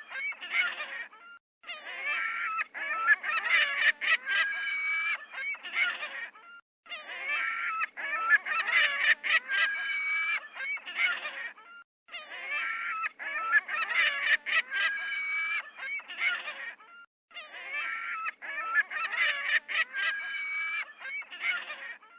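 Geese honking, a flock's busy calls in near-identical stretches that repeat about every five seconds with brief silent gaps, like a looped recording.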